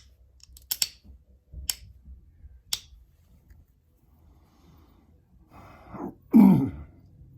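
Sharp clicks of novaculite flakes popping off under flintknapping, five in the first three seconds. Near the end, a loud exhale of breath with falling pitch.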